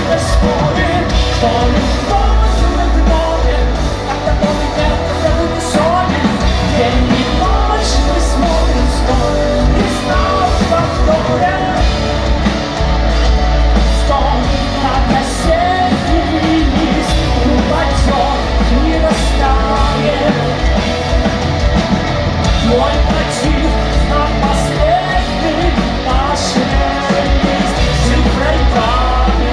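Rock band playing a song live, with sung and shouted vocals over a loud, dense band sound with heavy bass and steady drums.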